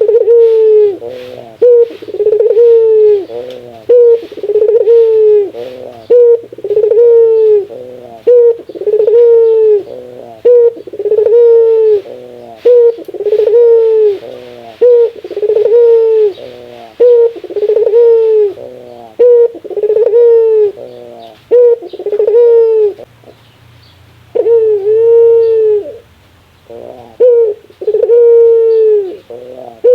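Puter dove giving its rare 'laughing' call: a long run of short arched coos, about one a second, with a brief pause about three-quarters of the way through.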